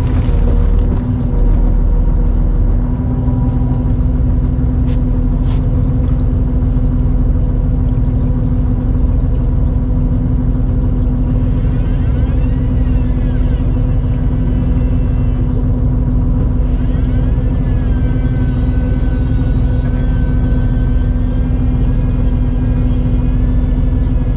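Fishing boat's engine running steadily: an even, low droning hum with a constant pitch.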